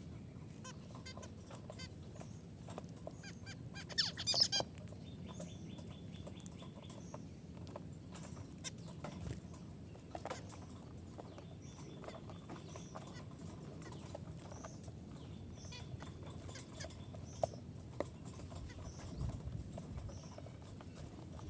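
A flock of budgerigars chirping and chattering together, short high calls repeating throughout, with a louder burst of chirps about four seconds in, over a low steady hum.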